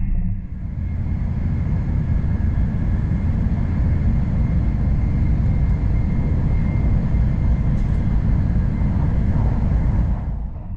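N700 series Shinkansen running at speed, heard from inside the car: a steady, deep rumble of rolling and air noise. It fades in just after the start and fades out near the end.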